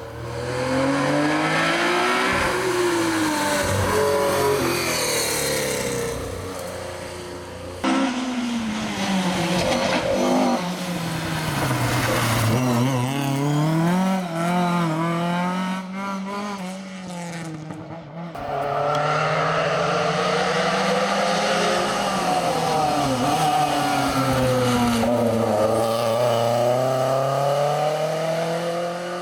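Historic rally cars at full stage pace, engines revving up and dropping back through the gears as they brake, turn and accelerate past. The sound changes abruptly about a third and two thirds of the way through, as a different car takes over.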